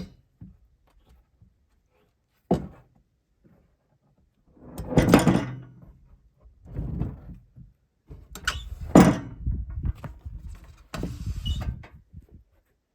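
Freshly sawn boards being handled and stacked: a sharp wooden knock about two seconds in, then several scraping, sliding sounds of boards dragged over one another and set down. The sawmill engine is not running.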